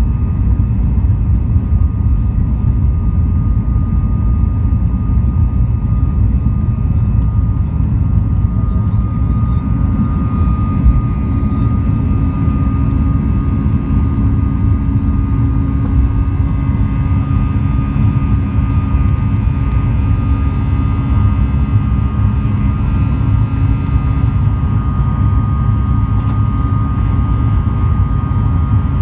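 Cabin noise of a Boeing 737 MAX 8 in flight: a loud, steady low rumble from its CFM LEAP-1B jet engines and the airflow, with a faint steady whine above it.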